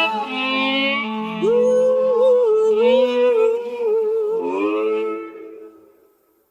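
Wordless vocal harmonies held as long notes, separated out of a song mix, with a smoothly gliding, bending melodic line over them in the middle; the sound fades out about six seconds in.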